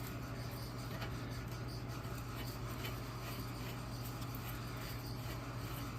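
A steady low hum, with faint rubbing and scattered light ticks over it.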